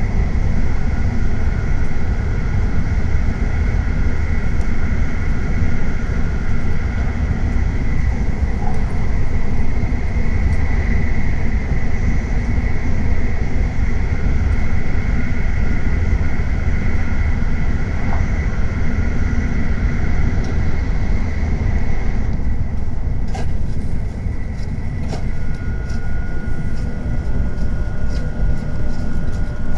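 Tokaido Shinkansen train running at speed: a loud, steady low rumble with faint steady whining tones above it. About twenty-two seconds in the higher hiss thins and a few light clicks follow.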